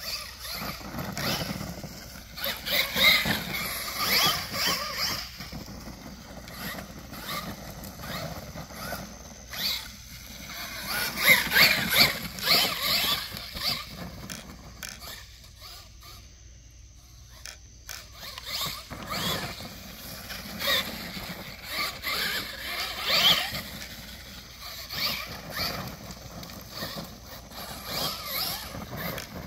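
Team Losi LMT Grave Digger RC monster truck's battery-powered electric motor and drivetrain whining in repeated bursts as it speeds up and slows, with pitch rising and falling and tyres scrubbing.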